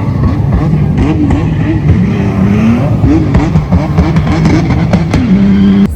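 A loud vehicle engine revving up and down over and over, its pitch rising and falling every half second or so.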